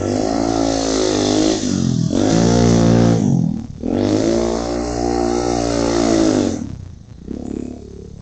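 Pit bike engine revving through the gears on a track, its pitch climbing and falling in three surges, then dropping to a quieter, lower note near the end.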